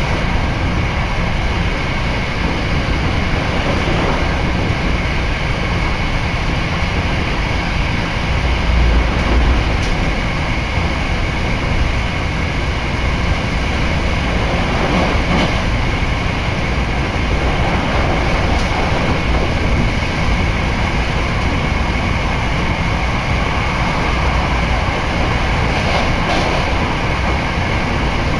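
Hankyu Railway commuter train running at speed, heard from inside the passenger car: a steady rumble of wheels on rail with a few light clicks.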